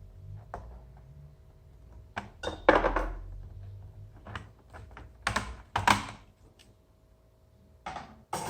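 Hands working on a laptop: scattered plastic clicks and knocks, with louder scraping bursts about two to three seconds in and again around five to six seconds, over a faint steady hum.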